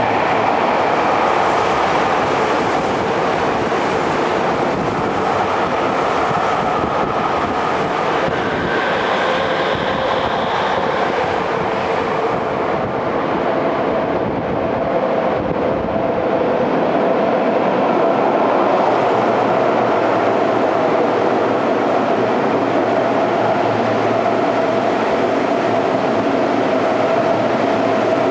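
Two express trains running through an underground station without stopping, the running noise echoing off the walls. First a Yokohama Minatomirai Railway Y500 series electric train passes on the far track; from about two-thirds of the way in, a Seibu 6000 series electric train comes through on the near track. Steady running noise with a steady motor tone and wheel clatter throughout.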